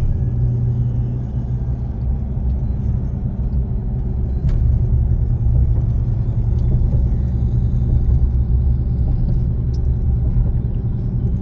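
A car driving, with a steady low road and engine rumble.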